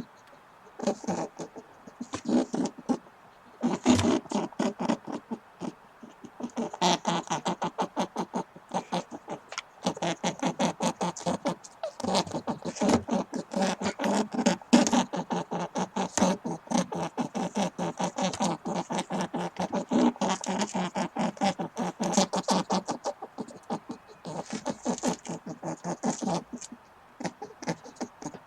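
Rabbit sound: fast trains of short clicking, chattering pulses, many a second, in bursts separated by brief pauses.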